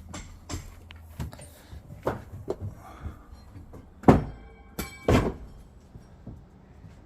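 Scattered knocks and clatter from work on a wooden deck, with two loud thunks about four and five seconds in, the second followed by a brief metallic ring.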